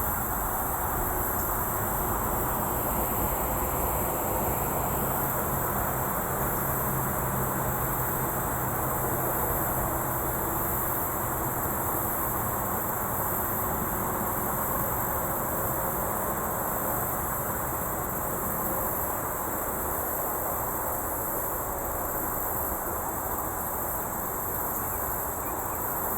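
Steady rumble of distant highway traffic, with a continuous high-pitched trilling of insects over it.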